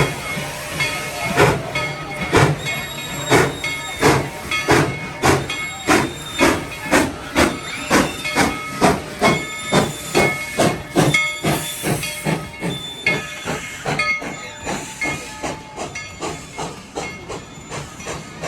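Steam locomotive's exhaust chuffing as it pulls away, with a steady hiss of steam; the chuffs speed up from about one a second to about two a second, then grow fainter.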